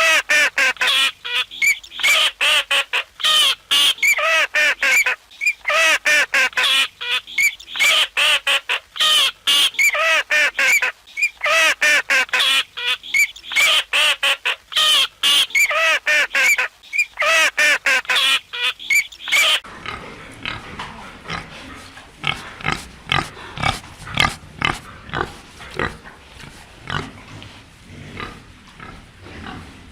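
A group of animals making many rapid, high calls that rise and fall, overlapping for about twenty seconds; then an abrupt change to pigs grunting, quieter and lower.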